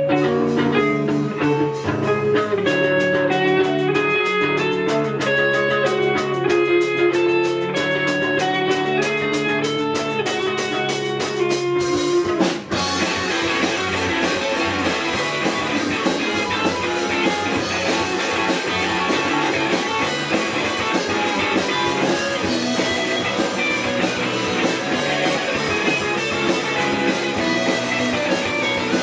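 Live rock band playing a song. A guitar intro of picked notes runs over a steady, fast ticking, then after a brief break about twelve seconds in the full band comes in with drums.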